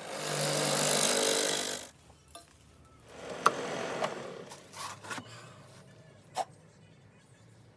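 Workshop tool noise: a loud hissing rush with a low hum under it for about two seconds, then a quieter rush with a sharp click, followed by a few separate knocks.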